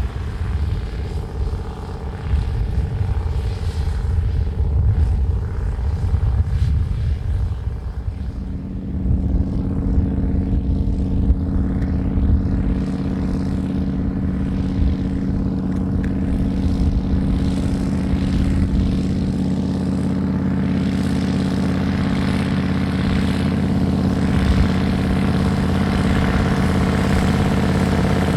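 Straight-piped twin-turbo V8 of an ACO 250 articulated tractor running under load while pulling a disc harrow. A deep, uneven rumble settles about eight seconds in into a steady droning note that grows slightly louder.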